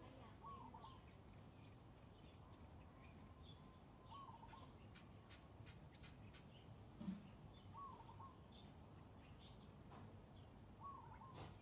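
Faint outdoor ambience: a short bird call repeats four times, every three to four seconds, over a steady high hiss, with a soft thump about seven seconds in.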